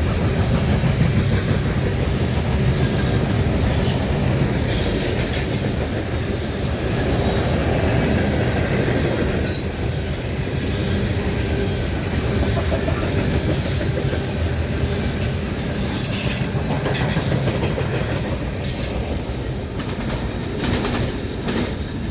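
Loaded coal hopper cars of a freight train rolling past, with the steady rumble of steel wheels on rail. Repeated clacks and a few brief high wheel squeals sound over the rumble.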